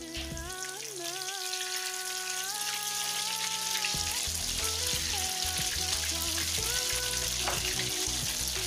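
Beaten egg frying in hot oil in a wok: a steady sizzle that grows louder over the first few seconds as more egg is spooned in. Background music with a melody plays over it.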